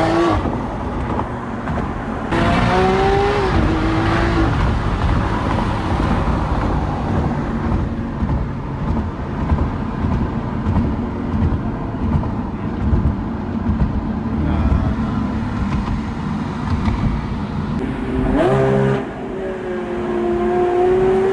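Lamborghini Aventador SVJ's V12 engine running with a steady low rumble. The revs rise about two seconds in and rise again near the end.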